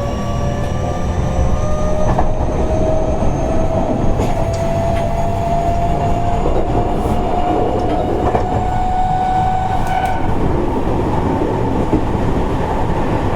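Onboard running sound of a Seibu 30000 series electric train: the traction motors' whine rises slowly in pitch as the train accelerates and fades out about ten seconds in, over a steady wheel-and-rail rumble with scattered rail-joint clicks.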